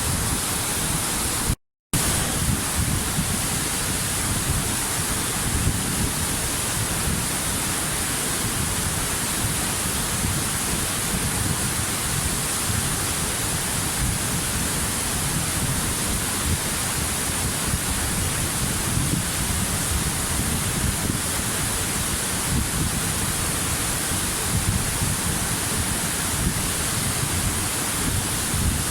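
Waterfall: a steady rush of falling water with a low rumble and a bright hiss, unchanging in level. It cuts out to silence for a fraction of a second about two seconds in, then resumes.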